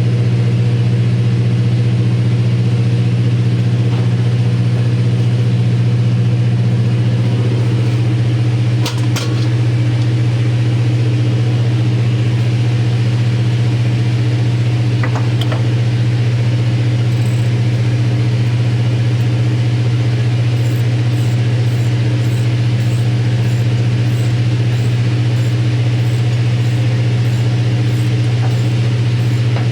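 A large engine running at constant speed with a steady low drone that never changes pitch. Two short metallic clinks come through it, about nine and about fifteen seconds in.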